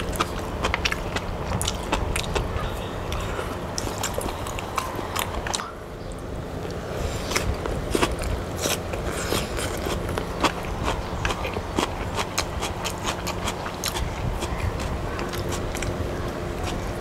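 Mouth sounds of eating fried noodles: biting and chewing mouthfuls, with many sharp wet clicks throughout. A steady low hum runs underneath.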